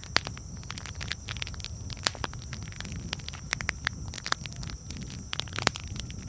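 Campfire crackling: irregular sharp pops and snaps, a few louder ones about a second in, near two seconds and near the end, over a steady low rumble.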